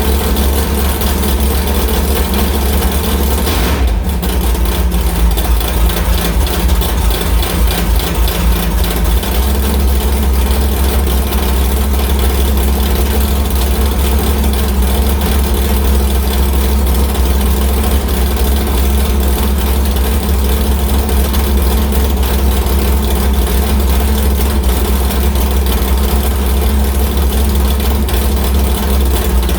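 1993 Cobra's 13:1-compression small-block Ford V8 idling after a cold start. About four seconds in, the idle turns rough and uneven for around five seconds, then settles into a steady run.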